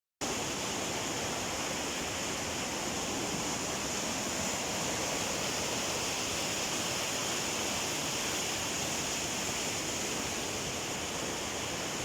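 Steady rush of fast-flowing water, even and unbroken, starting after a split-second dropout at the very start.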